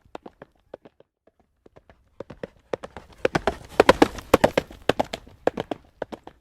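Horse's hooves clip-clopping on a paved road at a trot. The hoofbeats are faint and sparse for the first two seconds, grow louder and denser around the middle, and settle back into a steady beat near the end.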